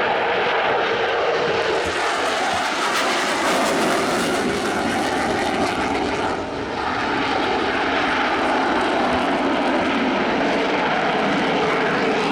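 Aircraft engine running loud and steady, with a brief dip in level about six seconds in.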